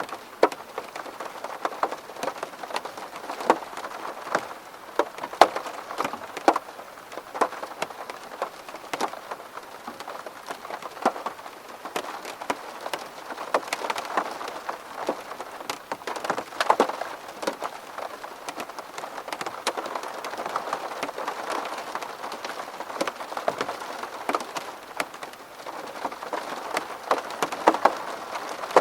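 Rain falling on window glass: a steady wash of rain with many separate sharp drop hits scattered throughout.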